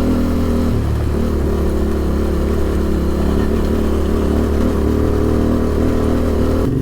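Adventure motorcycle engine running at low, fairly steady revs while the bike is ridden slowly over a rough off-road track.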